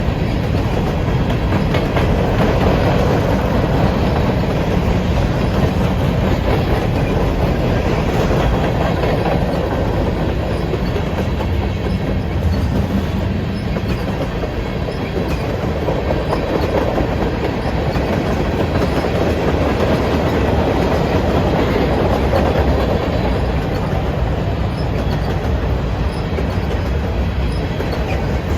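Freight train cars rolling past, their steel wheels running steadily over the rails with an even, unbroken rumble.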